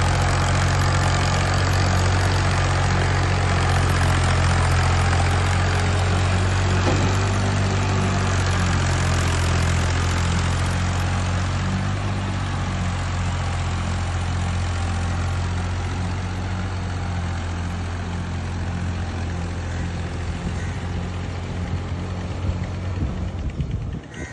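Tractor engine running at a steady speed, growing gradually a little quieter over the second half.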